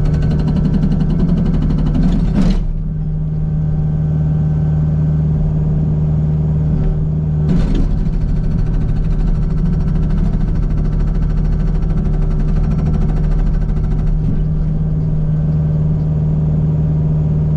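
Kubota U55 mini excavator's diesel engine running steadily under load, while the Agrotk 680 hydraulic breaker hammers solid sandstone with a rapid rattle of blows that is strongest in the first couple of seconds.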